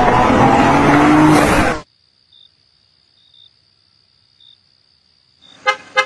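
A car engine revving hard as a car drives by, its pitch rising slightly, then cutting off abruptly about two seconds in. What follows is near silence with a faint high steady tone and a few faint chirps, then two short, sharp, pitched hits near the end.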